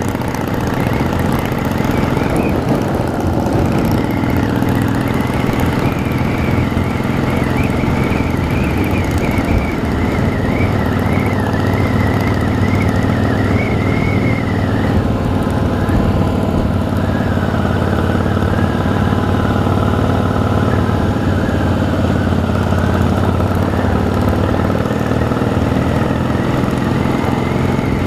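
Harley-Davidson motorcycle's V-twin engine running steadily, with no rises or falls in pitch.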